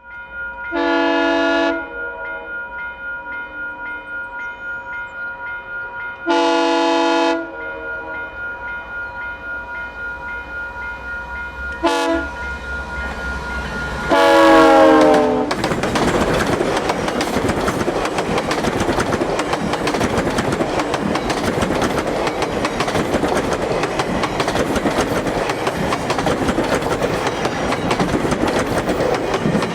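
GO Transit F59PH diesel-electric locomotive sounding its horn in the long-long-short-long grade-crossing pattern over a pulsing crossing bell, the last blast dropping in pitch as it passes. The train then rumbles and clatters by at speed.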